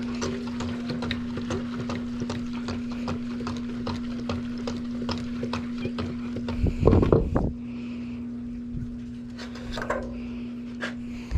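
Gas can being shaken to mix fresh gasoline with two-stroke marine oil: a run of rapid sloshing knocks, with a louder burst of knocks about seven seconds in, over a steady hum.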